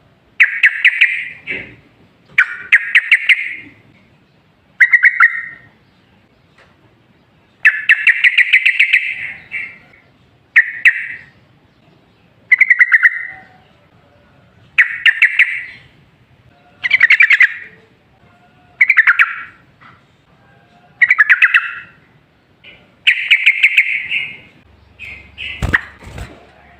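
Yellow-vented bulbul (trucukan) singing loud, bubbly chattering phrases, each about a second long and repeated roughly every two seconds. A brief low knock sounds near the end.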